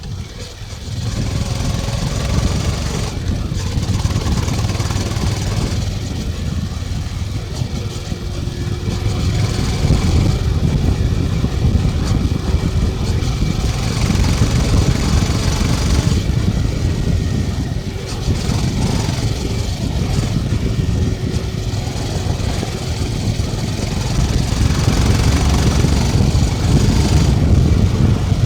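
Honda CB350 motorcycle engine and exhaust running while riding, with the exhaust note picking up about a second in after a brief dip.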